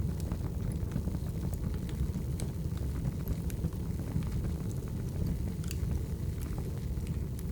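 Wood fire burning: a steady low rumble of flames with scattered crackles and pops from the logs.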